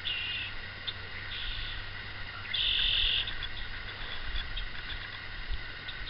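Birds calling: three short bursts of high chirping. The longest and loudest comes about two and a half seconds in.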